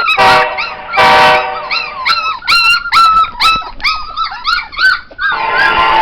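Dog vocalising: two short loud barks, then a quick run of high, arching yelps and whines, about three a second, which stop about five seconds in as music comes back.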